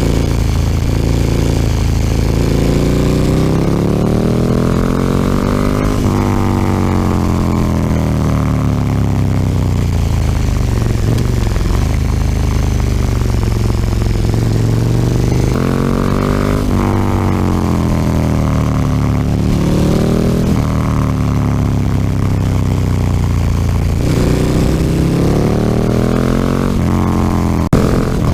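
KTM 1290 Super Duke R's V-twin through an Akrapovič slip-on exhaust, heard on board while riding. The engine revs rise and fall several times, rising under acceleration with sharp breaks at the gear changes and falling back as the rider rolls off.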